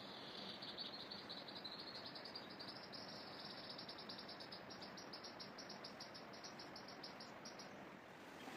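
An insect's high buzzing call, dipping and then slowly rising in pitch and breaking into rapid even pulses in its second half before stopping near the end, over a faint steady hiss.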